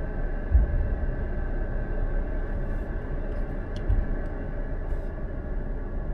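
Steady low rumble of a car on the move, with two short low thumps, one shortly after the start and one about four seconds in.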